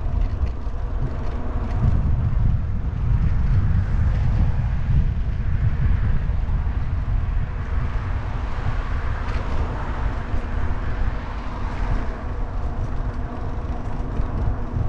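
Wind buffeting the microphone with the rolling noise of a fat-tire e-bike in motion, a steady, uneven rumble.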